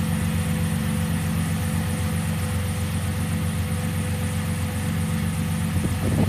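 Car engine idling steadily, an even hum that does not change.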